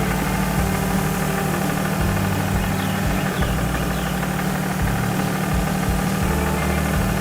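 Tractor engine running steadily at a low, even level.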